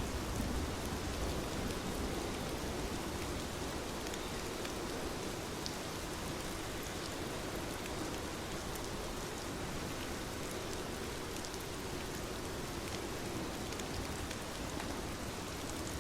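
Steady rain, an even hiss with scattered ticks of drops.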